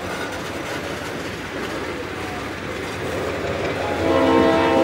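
Slow freight train rolling past, its wheels rumbling and clattering over the rails. Near the end a train horn starts sounding, several tones together, louder than the rumble.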